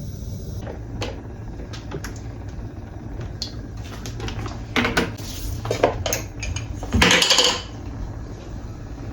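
Kitchenware handled while cooking: light clinks and clicks of dishes and utensils, louder knocks about five and six seconds in, and a brief harsh clatter about seven seconds in. A steady low hum runs underneath.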